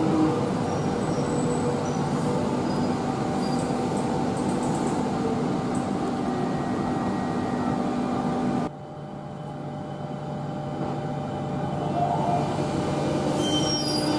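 Electric suburban train in an underground station: its motor whine falls away as it comes to a stop, then the standing train hums steadily with a few faint high squeaks. The sound drops suddenly about nine seconds in, and a quieter steady hum builds back up toward the end.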